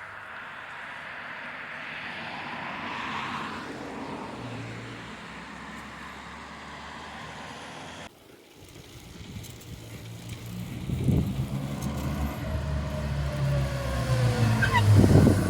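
A road vehicle passing by, its noise swelling and then fading. After an abrupt cut about halfway through, a low rumble builds up with rough, gusty peaks, like wind buffeting the microphone.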